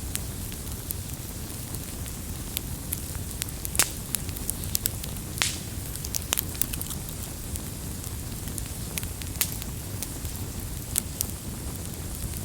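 Wood fire burning with a steady low rumble and frequent sharp crackles and pops at irregular intervals, the loudest pops about four and five and a half seconds in.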